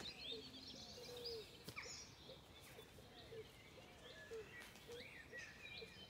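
Faint birdsong: several birds chirping and singing short phrases.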